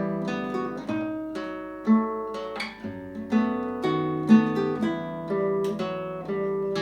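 Solo acoustic classical guitar played fingerstyle: a slow melody of plucked notes over a bass line, each note ringing on after its pluck.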